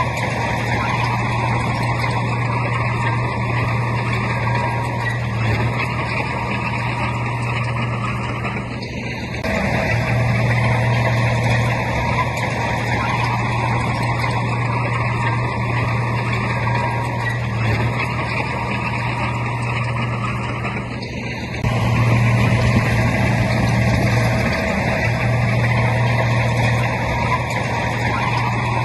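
Bulldozer's heavy diesel engine running steadily under load, easing off briefly about nine seconds in and again about twenty-one seconds in, then picking back up.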